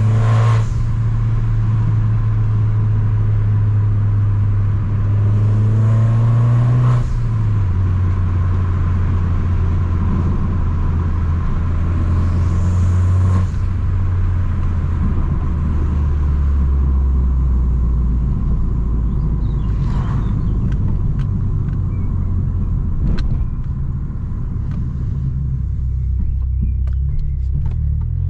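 Abarth 595 Competizione's tuned turbocharged 1.4-litre four-cylinder running through a full 60 mm exhaust, with a steady low drone. Its pitch steps down twice, about seven and thirteen seconds in, each time after a short hiss, then sinks slowly lower; the revs start rising again at the very end.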